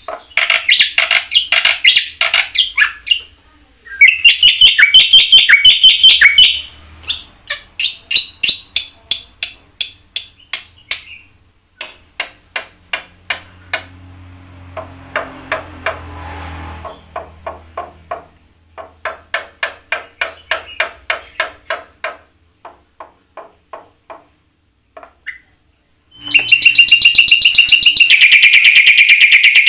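Black-winged starling (jalak putih) singing loudly in a long series of sharp, repeated notes a few per second, broken by short pauses. A fast, unbroken trill starts near the end.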